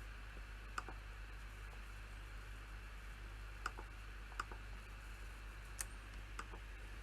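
A few scattered clicks from someone working at a computer, about five of them spaced a second or more apart rather than a run of typing, over a steady low hum and faint hiss.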